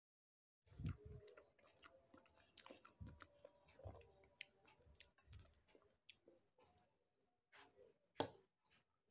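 Close-miked chewing of soft baked pasta in béchamel sauce, with small wet mouth clicks, starting just under a second in. A little after eight seconds in comes one sharp clink, the loudest sound, as the metal fork touches the glass plate.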